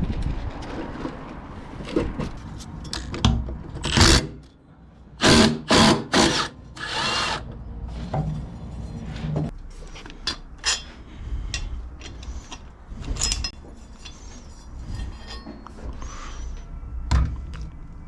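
Workshop tool noises: a few short bursts of a power tool among clanks and knocks of tools and metal parts, as the cutting blade is taken off a lawn mower.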